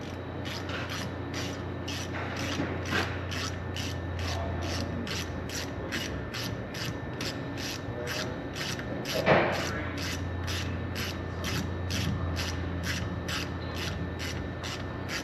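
Ratchet wrench clicking at a steady pace, about two to three clicks a second, as bolts are run down. A steady low hum lies underneath, and there is one louder knock about nine seconds in.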